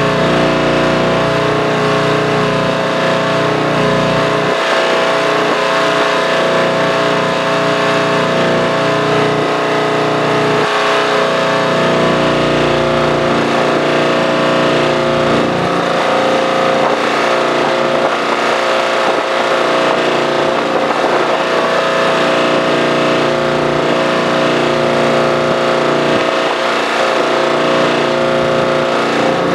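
An engine running steadily at a constant speed, with a shifting low rumble underneath.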